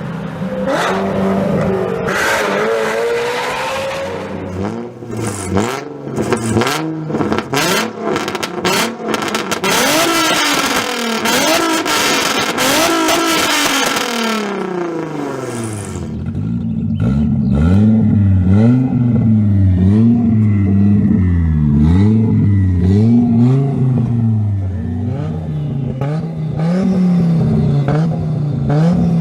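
Straight-piped car engines being free-revved. In the first half the revs rise and fall, with loud exhaust crackles and pops between them. From about halfway, after an abrupt change to another car, the engine is blipped over and over in quick, regular revs.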